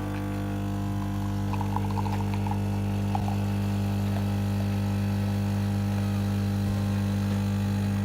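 Nespresso Creatista Uno coffee machine running, its pump giving a loud, steady buzzing hum.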